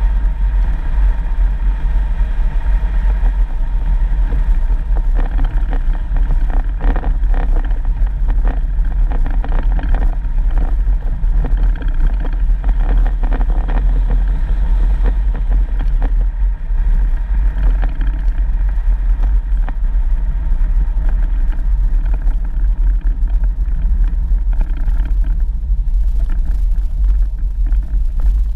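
4x4 vehicle driving along a dirt road: a steady low rumble of engine and road noise, with scattered knocks from the rough surface.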